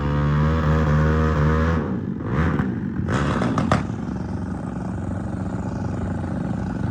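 Motorcycle engines revving, the pitch sweeping up and down a couple of times, then running steadily under power.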